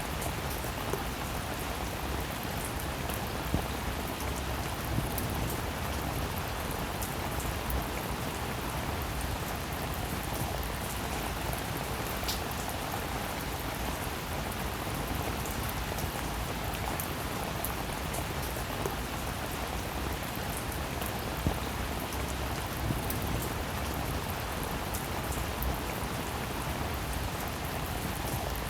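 Steady rainfall: a constant hiss of rain with individual drops striking clearly here and there.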